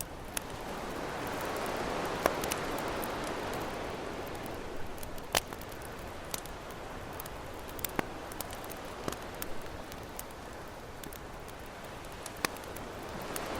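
Campfire crackling, with sharp pops scattered throughout, over ocean waves washing ashore: one wave swells about two seconds in and fades, and another builds near the end.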